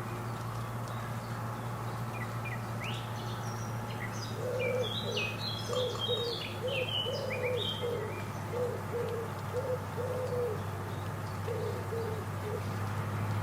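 Garden birds calling: high short chirps and twitters in the first half, and over them a low call repeated about ten times at an even pace until near the end.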